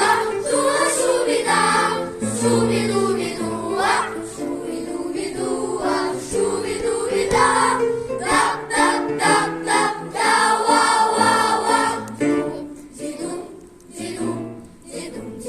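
Choir singing a wordless melody in held notes, quieter near the end.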